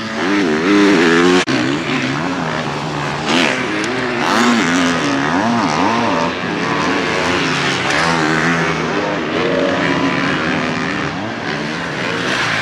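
Motocross bikes running on the track, several engines overlapping, their pitch repeatedly rising and falling as the throttle is opened and shut. The sound breaks off sharply for an instant about a second and a half in.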